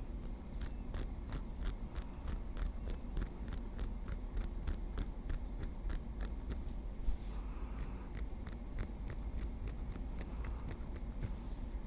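Light, quick tapping with a small wooden stick: an even run of small crisp clicks, about three to four a second, with a brief soft rustle about seven seconds in.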